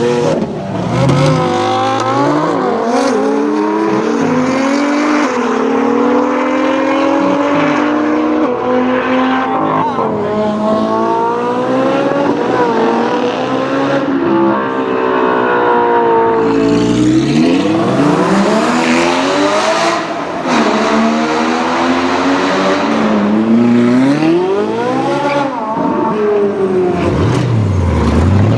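High-performance car engines revving and accelerating, the pitch climbing and dropping again and again through gear changes and throttle blips.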